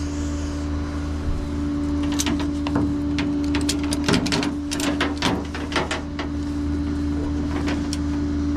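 Tow truck engine idling with a steady drone while tie-down straps are worked, giving a run of sharp metal clicks and rattles from about two seconds in to about six seconds in.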